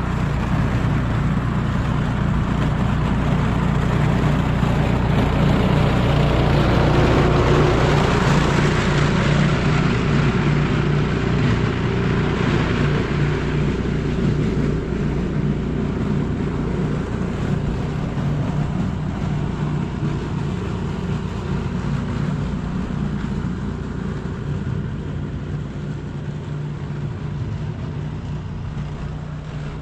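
A motor vehicle running: a steady low engine hum with a broad rush of noise that swells for several seconds and then slowly eases off.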